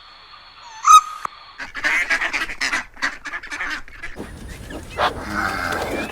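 Waterfowl calling: one loud call about a second in, then a run of rapid, harsh honking calls from several birds, with a louder call near the end.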